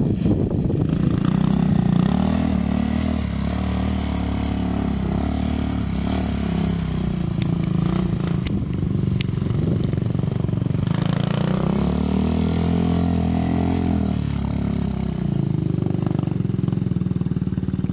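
Suzuki LTZ 400 quad's single-cylinder four-stroke engine running under throttle, its pitch rising and falling as it is revved, with one longer rev-up and drop in the second half. A few sharp ticks come through in the middle.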